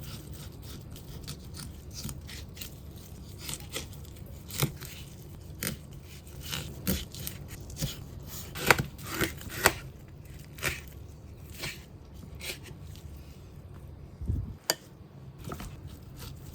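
Food being cut up: irregular sharp snips and scrapes, thickest about halfway through, over a steady low hum.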